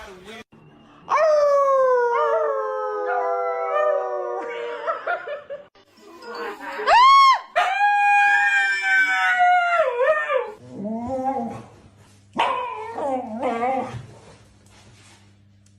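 A dog howling: three long, drawn-out cries. The first slides down in pitch, and the second swoops up and down before it levels off.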